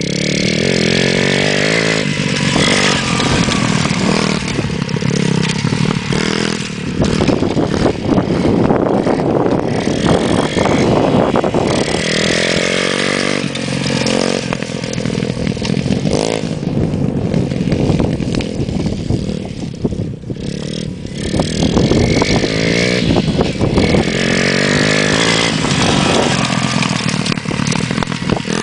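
Motocross bike engine running under load, its pitch climbing and falling again and again as the throttle is opened and closed through gear changes and turns.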